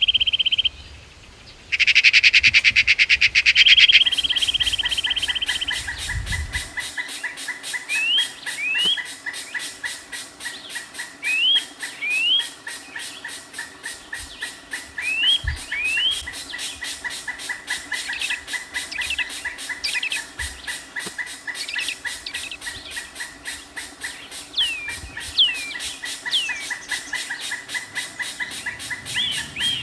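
Rain-forest birds calling. A loud rapid call fills the first few seconds, broken by a short pause. Then pairs of short rising whistles repeat every few seconds over a steady, fast, even pulsing chorus and a constant high tone.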